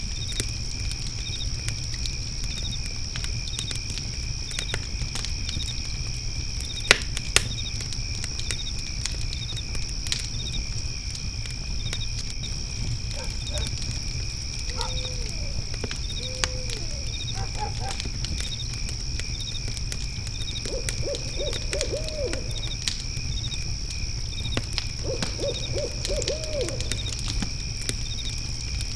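Night ambience of a crackling fire pit with scattered pops, two sharp ones about seven seconds in, over steadily chirping crickets and a low rumble. An owl hoots: two single hoots midway, then two quavering runs of rapid hoots near the end.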